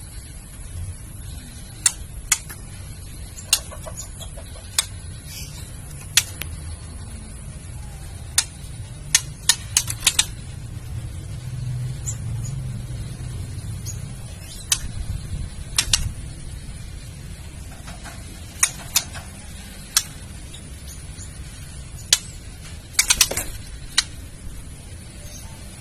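Female white-rumped shama giving its sharp clicking 'kretekan' call, single clicks and short rattling bursts at irregular intervals, over a low steady hum. It is the female's call that rouses male shamas to sing.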